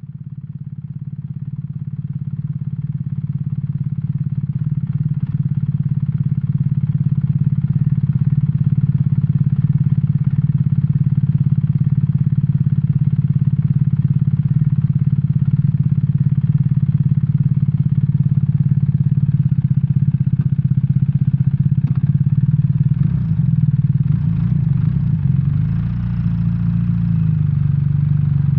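BMW R1300R's boxer twin engine running at a steady, low note, swelling in over the first few seconds. Near the end the note wavers and shifts in pitch as the engine speed changes.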